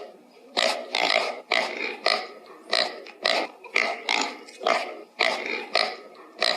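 Pig grunting, a quick run of short grunts at about two a second.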